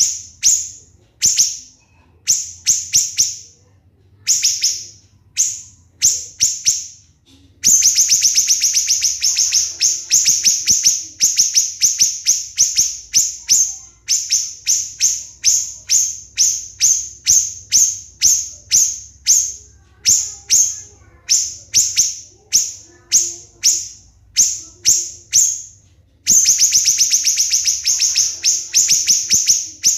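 Siri-siri bird singing its shrill rapid-fire 'tembakan' song: sharp high notes repeated fast, in short spaced bursts at first, then close, almost unbroken runs from about eight seconds in, with a brief pause near the end before it resumes.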